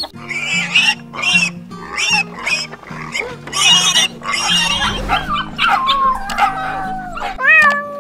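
Piglets squealing in a run of short calls over background music. A cat's meow begins near the end.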